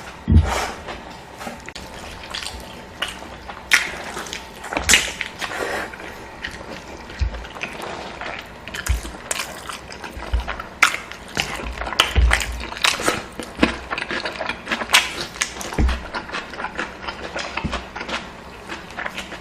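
Close-miked eating sounds: a person chewing and smacking food, with irregular clicks and soft thumps.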